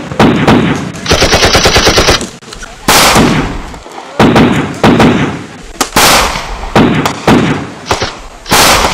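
Blank gunfire from a battle reenactment: a machine-gun burst of about a second, starting about a second in, then about seven single rifle shots spaced out, each trailing off in echo.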